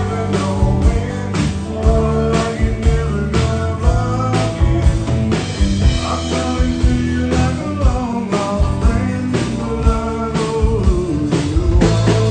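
A band playing a country-rock song, with a drum kit keeping a steady beat under bass and electric guitar.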